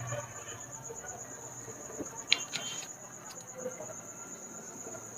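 Crickets chirring steadily in one high-pitched, slightly pulsing trill, with a sharp click about two seconds in.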